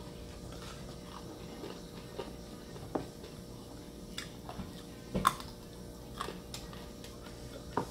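A person eating by hand, chewing and biting food, with scattered soft clicks and taps; the loudest comes a little past five seconds in.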